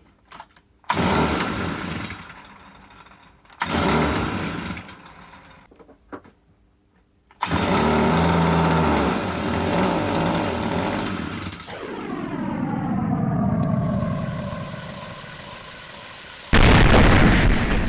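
Stihl FS 38 trimmer's small two-stroke engine catching briefly and dying twice, then running for about four seconds before its speed sags away with falling pitch, and a loud rough burst near the end. The engine will not keep running properly; its carburettor is dirty.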